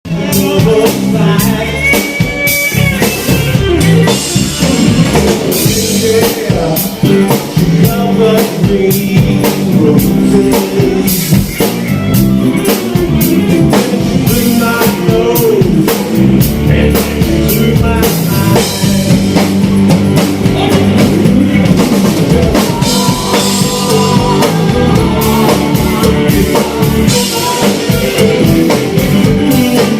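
A band playing rock-style music: drum kit, guitar and a singing voice, continuous and loud.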